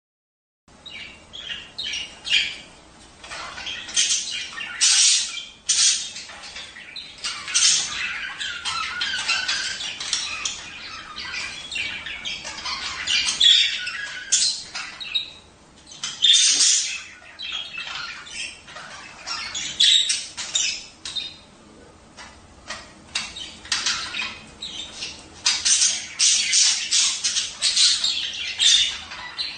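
Budgerigars chattering and warbling together, with rapid high chirps and frequent loud sharp calls. It starts after a brief dead silence just under a second in.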